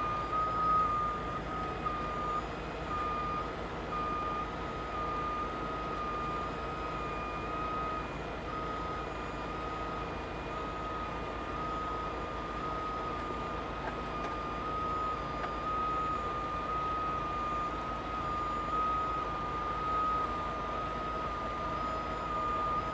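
A truck's backup alarm beeping steadily, about once a second, over the steady running of a truck engine.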